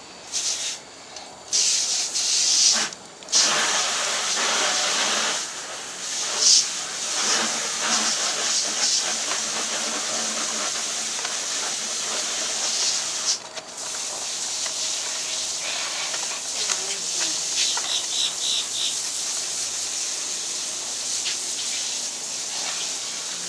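Rehydrated Denver omelet egg batter sizzling in hot oil in a frying pan on a propane camp stove. It hisses in short bursts as the first of the batter is poured in, then sizzles steadily, with one brief break about halfway through.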